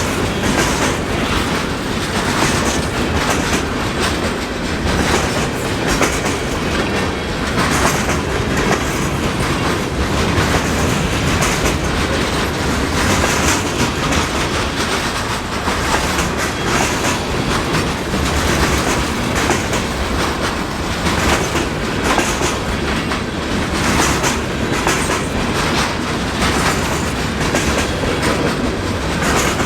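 Freight cars of a mixed freight train rolling past close by in a steady, loud run of clicks and rattles, the wheels crunching over ice-glazed railheads.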